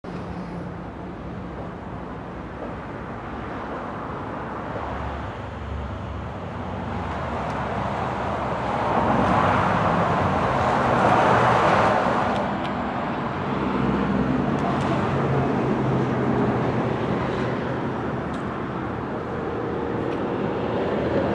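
Road traffic noise, swelling as a vehicle goes past about nine to twelve seconds in.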